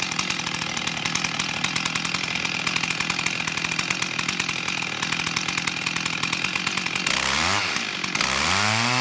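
Two-stroke chainsaw idling steadily with a fast ticking, then revved up twice near the end, the second time held at high revs.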